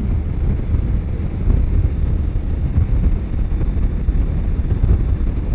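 Wind rushing over a helmet microphone with motorcycle engine and road noise while riding at highway speed, a steady low rumble with no breaks.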